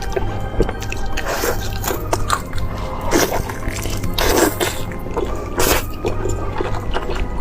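Close-miked mukbang eating: wet biting, squelching and chewing at irregular moments, with several louder wet squelches, over steady background music.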